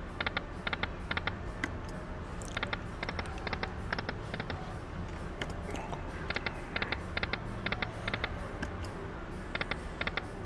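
Electronic slot machine playing its spin sounds: groups of quick sharp clicks, several at a time, every second or so, over a low steady hum of casino machines. A louder spin sound starts right at the end.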